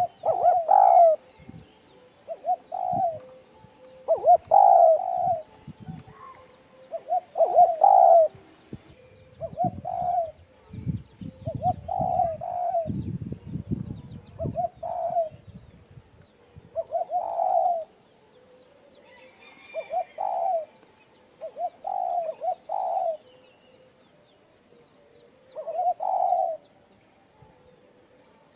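Dove cooing: short coos repeated every couple of seconds. Low thumps and rustling sound under the first half.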